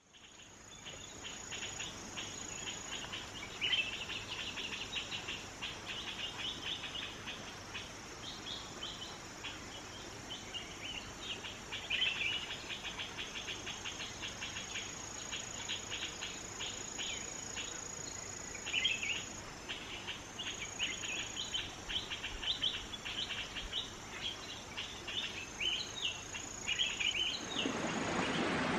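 Forest birds chirping and trilling in quick runs over a steady high insect drone. A broad rushing noise rises near the end.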